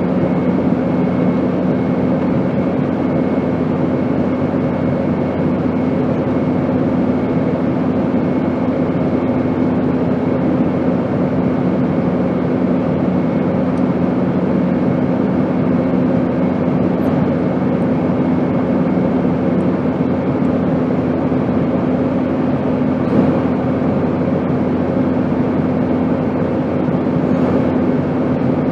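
Airplane noise: a steady, even rush with a constant low hum, unchanging throughout.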